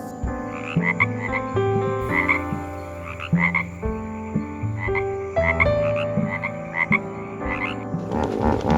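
Frogs croaking in repeated short calls that come in clusters.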